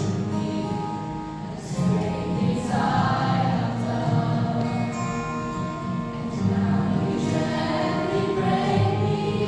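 Student choir singing a gospel song with musical accompaniment.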